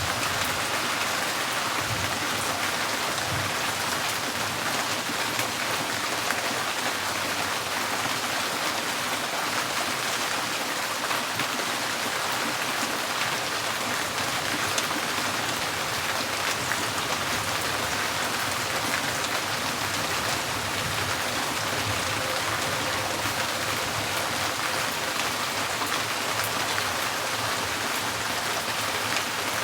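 Rain pattering steadily on a tin porch roof, a dense even hiss with scattered sharper drop ticks.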